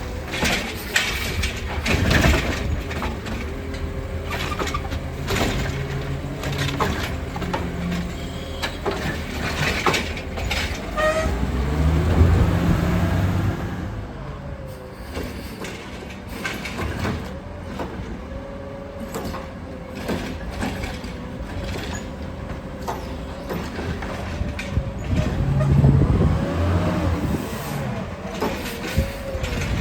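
Heil Rapid Rail automated side-loader garbage truck working: the engine runs and revs up and down several times, with repeated knocks and clatter as carts are handled and dumped.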